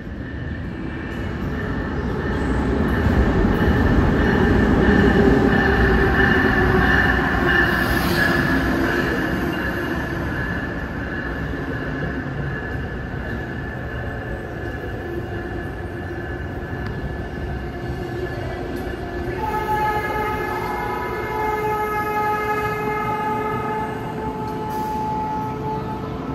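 Amtrak train hauled by an ACS-64 electric locomotive rolling into a station: a heavy rumble peaks as the locomotive passes about four seconds in, then the steadier roll of the passenger coaches goes on. About twenty seconds in, a steady squeal of several high tones joins in.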